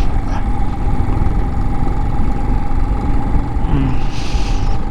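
Motorcycle riding along, its engine giving a steady drone under heavy wind buffeting on the microphone. A brief hiss comes near the end.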